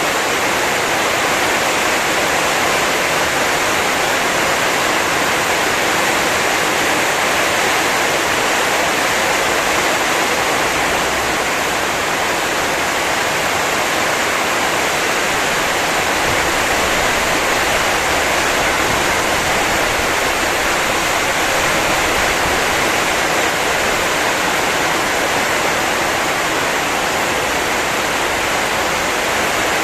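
Heavy storm rain pouring steadily, an even rushing hiss with no breaks.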